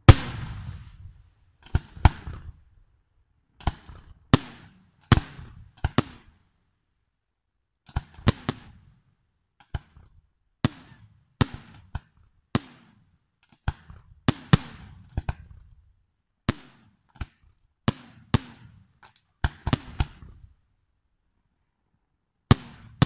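Aerial firework shells bursting one after another: sharp bangs with echoing tails, irregularly spaced about a second apart, sometimes two in quick succession. There is a pause of about two seconds near the end before the bangs resume.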